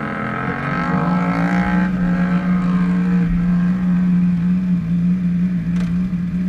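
An engine running steadily at a constant pitch, with a fainter higher whine that eases down and fades over the first few seconds.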